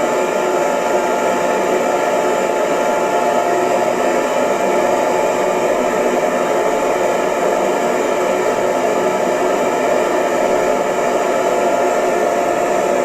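Hair dryer running steadily: a constant airflow rush with a steady motor whine.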